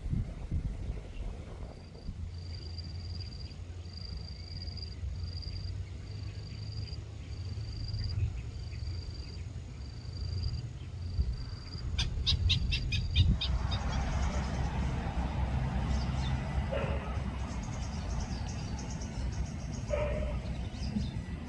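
A bird repeats one short, high, even note about once a second, some ten times. Then comes a quick rattling chatter, followed by a rushing noise, all over a steady low rumble.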